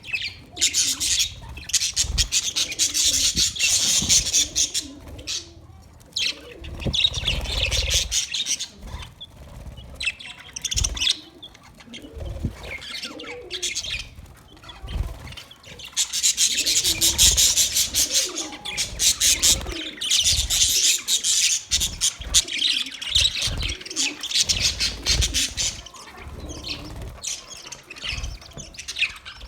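Budgerigars chirping and chattering in fast, warbling runs, loudest in the first few seconds and again from about 16 to 22 seconds in, with occasional low thumps.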